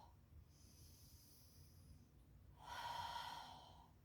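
A woman's slow, deep breathing as she holds a yoga pose. A faint breath comes first, then a louder one starts a little before three seconds in and fades away.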